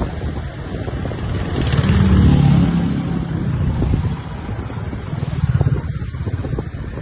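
A motor vehicle's engine running close by on the road, swelling loudest about two seconds in and again briefly near the end, over a low rumble of wind on the microphone.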